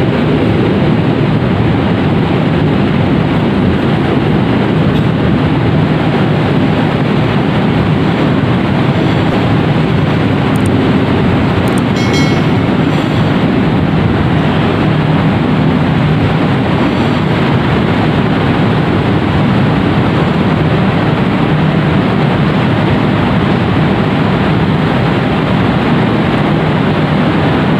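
KA Gajayana passenger coaches rolling into the station on the track beside the platform: a loud, steady rumble of wheels on rails as the train runs past close by, easing down as it slows.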